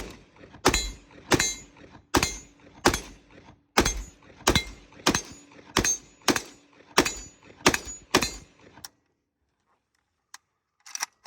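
AK rifle firing 7.62x39 rounds in steady semi-automatic fire, about thirteen shots roughly 0.7 s apart. The shooting stops about nine seconds in, followed by a few faint clicks.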